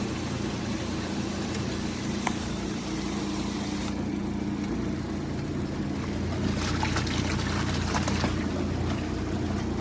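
Portable twin-tub washing machine running: a steady motor hum with water swishing and trickling, the water sounds stronger from about six and a half seconds in.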